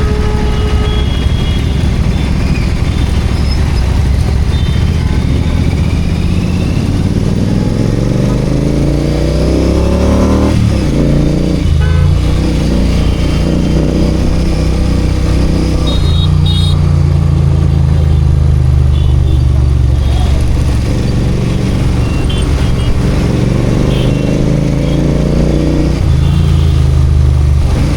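Royal Enfield Continental GT 650's parallel-twin engine and exhaust running in city traffic. The pitch climbs steadily as the bike accelerates about a third of the way in, drops sharply as the throttle closes, and climbs again near the end. About halfway through there are a couple of short, high toots from vehicle horns.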